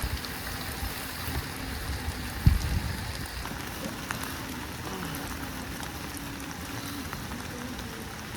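Rain falling steadily, with a dull low thump about two and a half seconds in.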